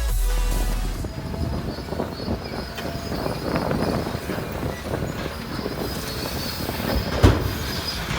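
Tracked earthmoving machine at work, its steel crawler tracks and running gear clattering, with one loud knock about seven seconds in.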